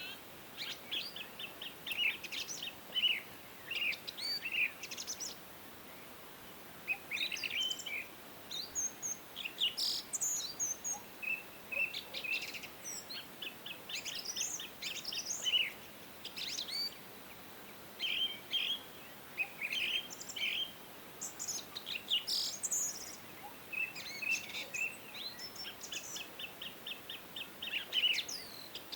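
Several songbirds singing and chirping, with rapid trills and short high chirps overlapping almost continuously over a faint steady hiss.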